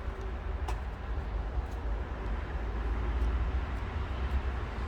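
Steady low rumble with a light click about two-thirds of a second in.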